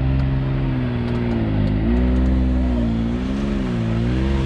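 Side-by-side UTV engine running under throttle, its pitch steady at first, then dipping about two seconds in and rising and falling several times as the throttle is worked.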